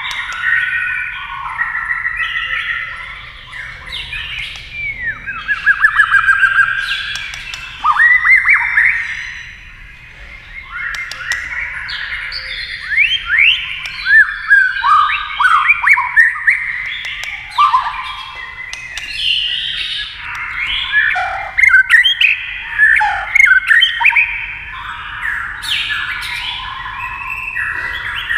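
White-rumped shama singing a long, varied song of loud whistles, quick rising sweeps and sharp clicking notes, phrase after phrase with only short gaps.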